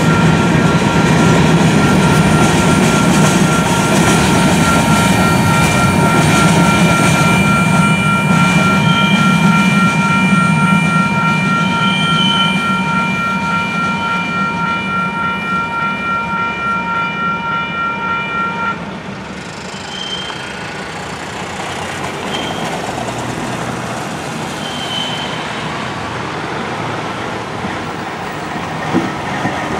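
Union Pacific covered hopper freight train rolling past, its cars rumbling, louder at first and easing as the last cars pull away. A grade crossing bell rings steadily over it and stops suddenly about two-thirds of the way through.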